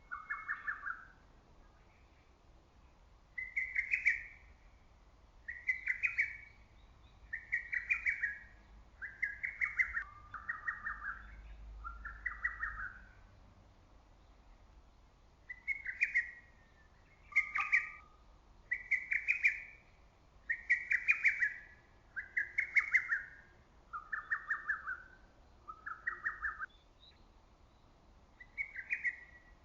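Lesser cuckoo (hototogisu) singing its loud, rapid whistled phrase over and over, about one phrase every second or two, with a pause of a few seconds around the middle.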